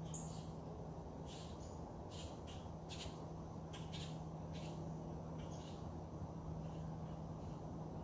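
Birds giving short, high chirps, scattered irregularly, over a steady low hum.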